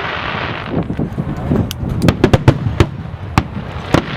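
Aerial fireworks going off in a rapid string of sharp bangs and crackles, with a rushing hiss at the start and the loudest cluster of bangs about two seconds in.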